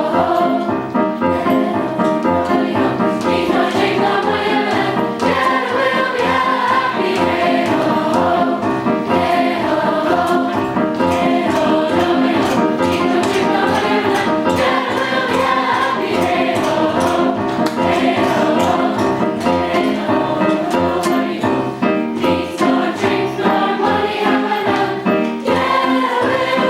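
Group of voices singing together over musical accompaniment with a steady beat.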